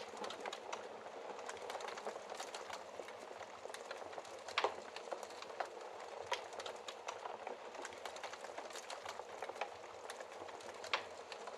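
Wood fire crackling in a fireplace: a steady hiss with irregular sharp pops, the loudest about halfway through and near the end.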